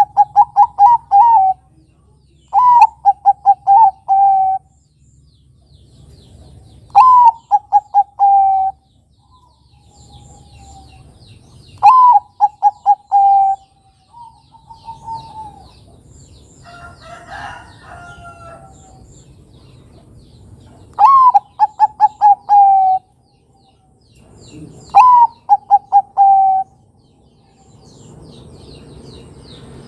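Bangkok-type zebra dove (perkutut) cooing its song: phrases of a rising opening note followed by a quick run of short coos, repeated six times a few seconds apart. A rougher, lower bird call sounds briefly about halfway through.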